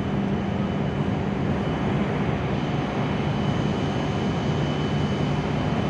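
W7 series Shinkansen train running at the platform: a steady rumble and hum whose low pitch drops slightly about three seconds in.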